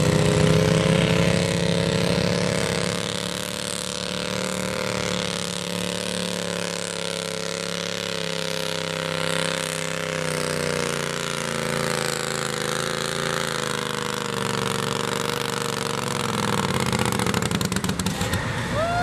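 Twin-cylinder garden tractor engine running hard under load while pulling a weight-transfer sled; its note sinks slowly through most of the pull, then shifts near the end.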